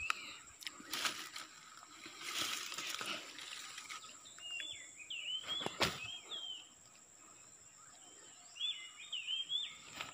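A small bird chirping in quick runs of short calls, heard at the start, around the middle and near the end. Rustling through undergrowth in the first few seconds and a single sharp knock near the middle.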